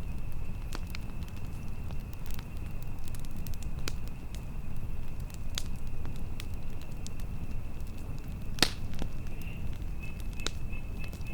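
Campfire crackling: scattered sharp pops over a steady low rumble, with one louder pop about eight and a half seconds in. A thin, steady high tone runs along with it and drops out briefly near the end.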